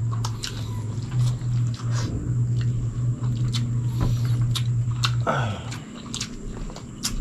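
Close-miked chewing and lip smacking as rice and chicken are eaten by hand, many small wet clicks. Under them runs a low steady hum that stops with a short falling slide about five seconds in.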